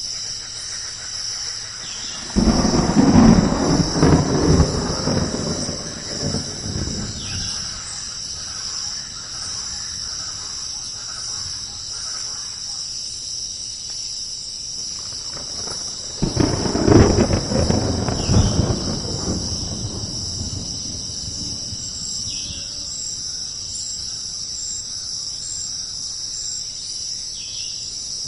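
Thunder rumbling twice, once starting about two seconds in and again about halfway through, each roll breaking in suddenly and fading over several seconds, over a steady high chorus of insects.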